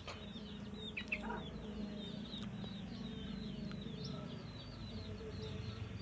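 Faint background bird sounds: many short, high chirps repeating, with a few clearer calls about a second in, over a low steady hum.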